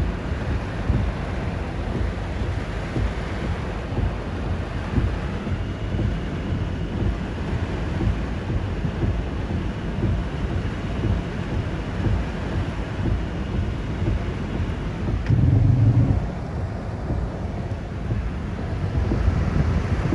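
Typhoon wind buffeting the microphone: a steady, rushing low rumble, with a louder low burst about three-quarters of the way through.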